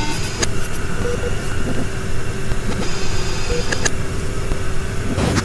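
Designed horror ambience: a steady low rumble under a constant hum, with a few short tones and a couple of sharp clicks.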